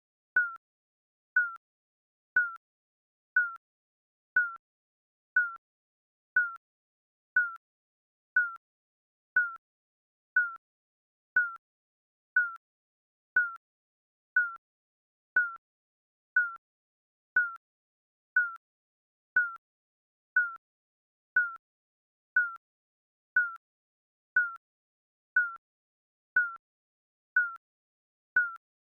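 Digital countdown-timer beeps: a short, single-pitched electronic beep once every second, evenly spaced, ticking off the seconds.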